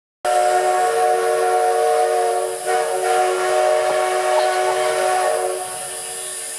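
Steam whistle of the CK124 steam locomotive blown in one long blast, several tones sounding together as a chord over a hiss of steam. The whistle stops about five and a half seconds in, leaving a steady steam hiss, as the locomotive prepares to start.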